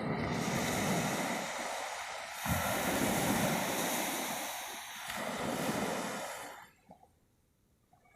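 Ocean surf: a wave washing in as a rushing swell that surges twice and dies away about two-thirds of the way through.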